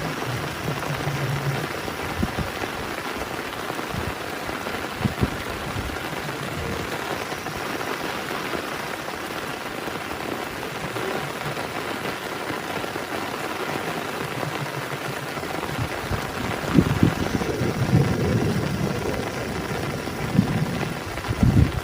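Heavy rain falling steadily, with a run of low thumps and rumbles in the last few seconds.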